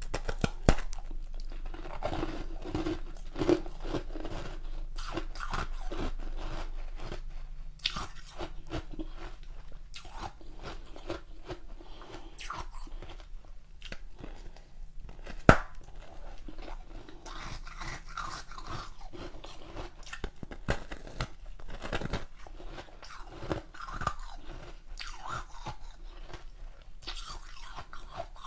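A person biting and chewing a large block of ice, with continual irregular crunching and cracking. Two sharp snaps stand out, one about a second in and one about halfway through.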